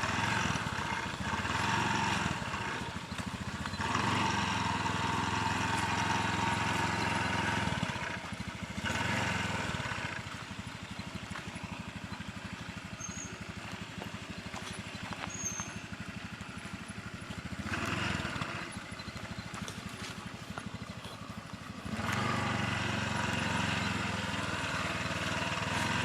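A small motorcycle engine running steadily, fading for a long stretch midway and coming back strongly near the end.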